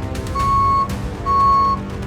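Background music with a repeated high, steady-pitched beep about half a second long, sounding about once a second.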